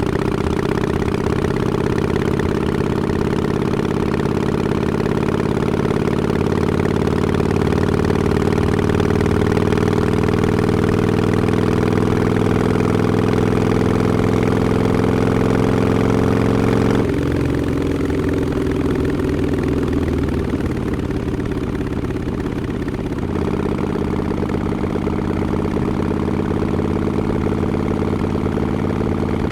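2017 Harley-Davidson Forty-Eight's air-cooled 1200 cc V-twin running through Vance & Hines Short Shots mufflers with quiet baffles. Its note climbs slowly and steadily, drops abruptly and goes softer about seventeen seconds in, then firms up again about six seconds later.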